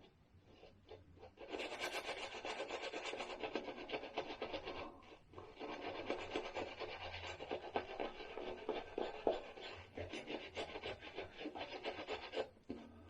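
Shaving brush scrubbing a rich shaving-soap lather, a fast wet rubbing and rasping that starts a second or so in, pauses briefly around the middle and stops shortly before the end.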